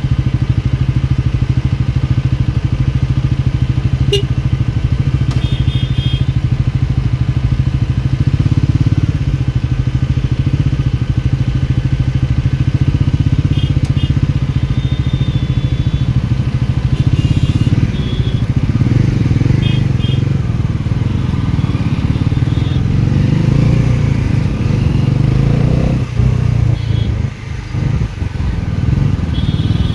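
Motorcycle engine running steadily under way, with short high beeps cutting in several times.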